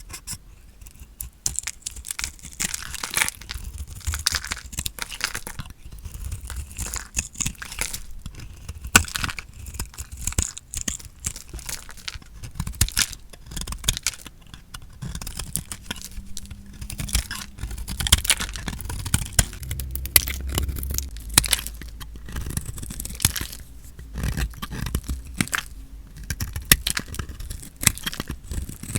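A blade cutting into a bar of soap, making a steady run of crisp crunching and crackling, with short lulls between cuts.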